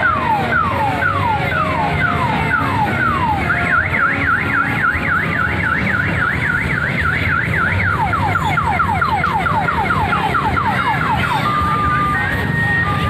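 Electronic toy siren on a kiddie car ride cycling through its patterns: falling wails about twice a second, then a fast up-and-down warble, then quicker falling yelps, and near the end alternating two-tone beeps, over a steady low rumble.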